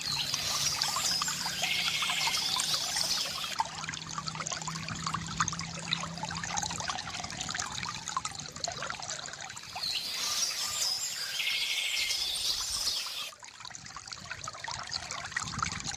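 Water trickling and pouring steadily from a bamboo fountain, with birds chirping over it during the first few seconds and again from about ten seconds in.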